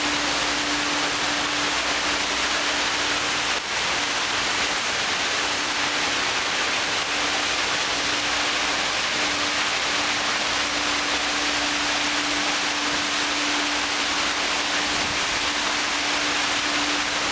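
A park waterfall: water pouring and splashing in a steady rush, with a steady low hum underneath.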